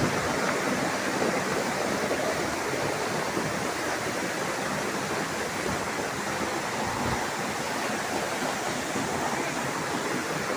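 Steady rush of the Ribeirão das Pedras's water falling and running over rock at the Saltão waterfall.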